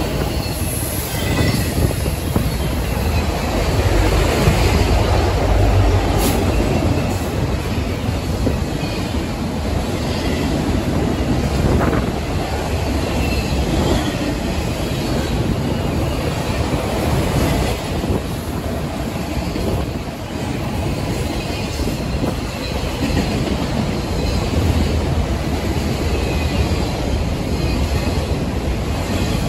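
Two Union Pacific freight trains rolling past side by side, autorack cars on one track and double-stack container well cars on the other. Their steel wheels clatter steadily over the rail joints, with brief high wheel squeals now and then.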